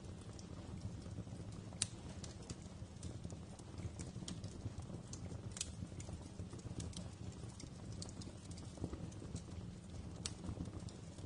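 Wood fire in a fireplace crackling: irregular sharp pops and snaps over a steady low rumble, with one louder pop about two seconds in.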